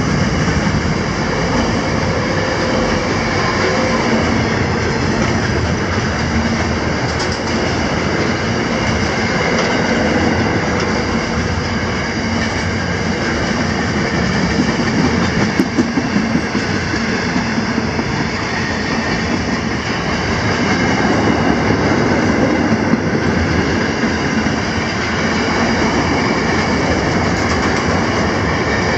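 Container wagons of a long freight train rolling past close by: a steady, loud rumble and rattle of steel wheels on the rails.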